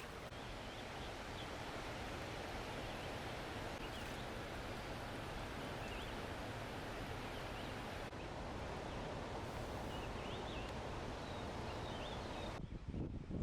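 Steady rush of a waterfall, with small birds chirping faintly now and then. Near the end the rush cuts off abruptly to a lower, uneven rumble.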